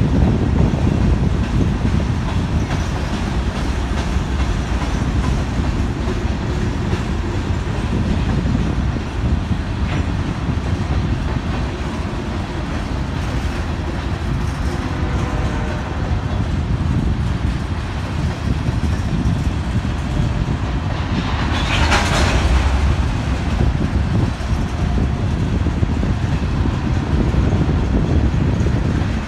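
Covered hopper cars of a freight train rolling past, their wheels clicking over the rail joints with a steady rumble. A brief hissing burst stands out about three-quarters of the way through.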